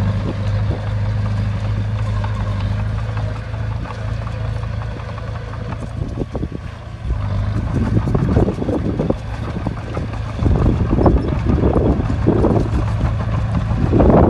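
A bulldozer's diesel engine runs at a steady drone. From about halfway, rough, gusty rushing noise comes in over it and grows louder toward the end.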